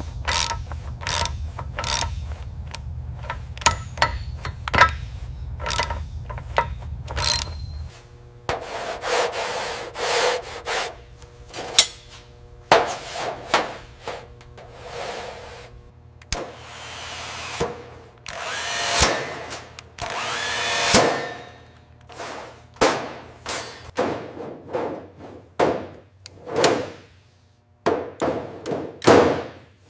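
Workshop tool noise. A steady low hum with sharp knocks about once a second stops about a quarter of the way in. It is followed by a string of short tool bursts and scrapes, two of them longer and rising in pitch.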